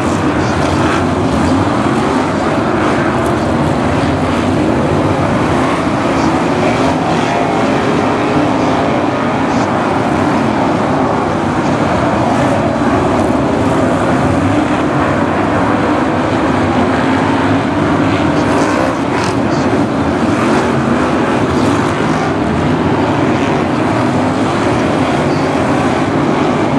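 A pack of V8-engined BriSCA F1 stock cars racing, many engines running hard together with their pitch rising and falling as the cars lap the track. A few short knocks sound over the engine noise.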